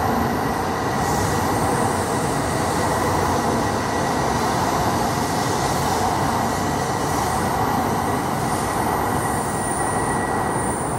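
E2 series Shinkansen train running past the platform: a steady, loud rumble of wheels on rail and running gear, with a thin high steady whine held over it.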